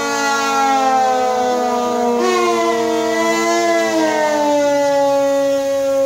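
A wind instrument playing a slow melody of long held notes that glide up and down, over a steady drone.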